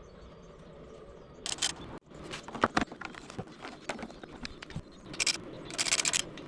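Rear air shock of a BMW G 650 Xchallenge worked up and down, giving irregular squeaks, creaks and clicks with several louder scraping bursts. The squeak on compression and rebound is a known complaint with this air shock.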